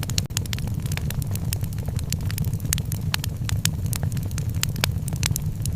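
Wood fire in a fireplace crackling, with many sharp irregular pops and snaps, several a second, over a steady low rumble.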